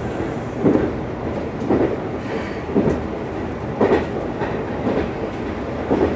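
Meitetsu 1200 series Panorama Super electric train running, heard from inside the car: a steady rumble with the wheels clacking over rail joints about once a second.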